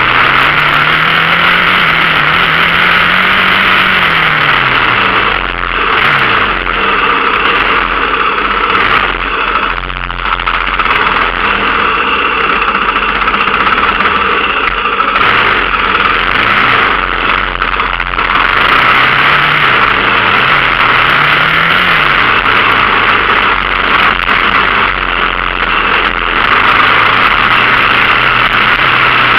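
Dirt bike engine being ridden, its pitch rising and falling again and again as the throttle is opened and closed, under a constant loud rushing noise.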